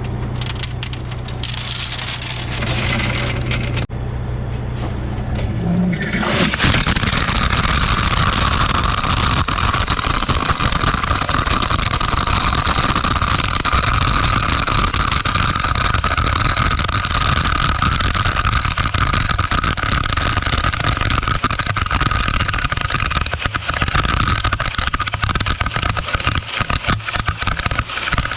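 Dump truck engine running. About six seconds in, a loud steady rushing and rattling noise with a steady whine over it sets in and continues as the truck spreads rock, the load pouring out through the tied tailgate onto the road.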